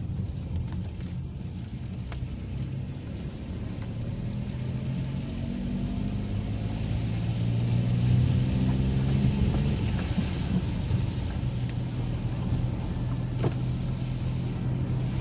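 Car engine and road noise while driving. The engine note rises and grows louder about five seconds in, then holds steady.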